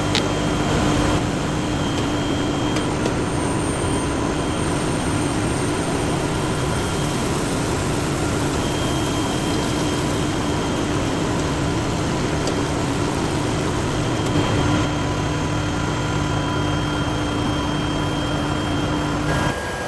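Induction hardening machine running on a tractor rear shaft: a steady hiss with a constant hum and faint higher tones, which changes abruptly near the end.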